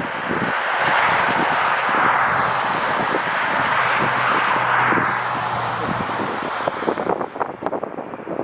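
Jet engines of a Boeing 787-9 airliner passing at high power, swelling and then easing, with a faint high whine sliding down in pitch as it goes by. Near the end, wind buffets the microphone.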